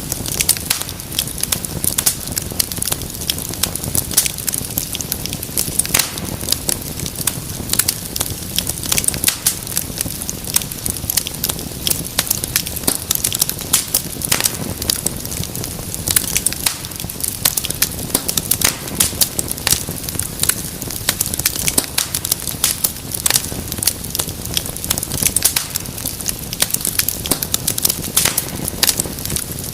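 Wood fire crackling steadily: many sharp pops and snaps at irregular intervals over a low, even rumble of burning.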